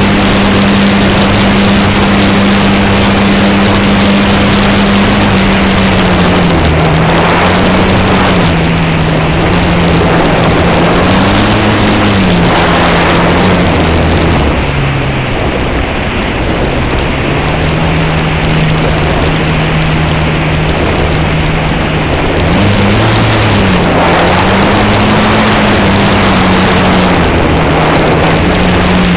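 Electric motor and propeller of an E-flite Cherokee 1.3m RC plane heard from the onboard camera, a steady hum that dips and rises in pitch as the throttle is eased and opened, over constant wind rush. The motor runs lower and a little quieter through the middle, then picks up again.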